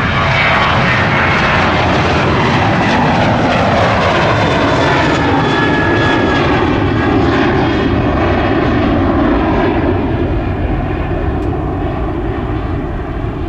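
Boeing 737-800's twin CFM56-7B turbofan engines at takeoff power as the jet passes, their whine gliding down in pitch. The roar eases off after about ten seconds as it moves away.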